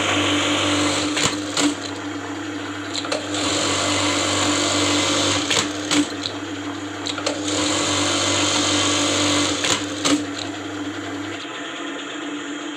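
Juki LBH-781 industrial buttonhole machine running through its stitching cycles: rapid steady stitching in runs of a few seconds, broken by several sharp clicks between runs. The motor hum cuts off near the end.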